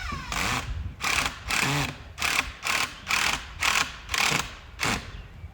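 Power drill driving a long wood screw in about ten short bursts, pressed hard into the board, until the screw is fully in.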